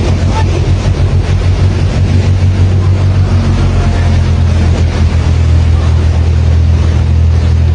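A large engine running with a steady low drone over a constant rushing noise.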